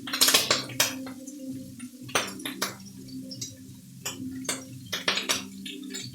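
Metal utensils clinking and scraping against a pan and plates as stir-fried noodles are served out, in quick irregular strokes, the loudest just after the start. Low steady tones run underneath.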